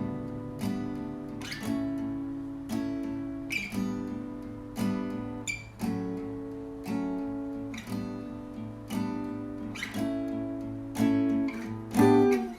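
Acoustic guitar in open D tuning (D A D G B E) playing an instrumental passage: chords strummed about once a second, each left to ring and die away, with a louder strum near the end.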